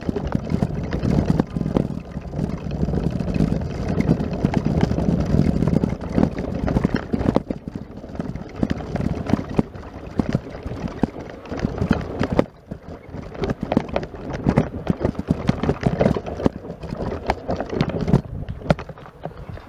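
Footsteps crunching in snow, an irregular run of soft impacts, with a low rumble on the microphone in the first half.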